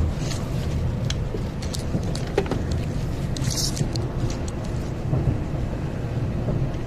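Steady low rumble of a Shinkansen bullet train running, heard from inside the passenger cabin, with a few faint clicks and a brief hiss about three and a half seconds in.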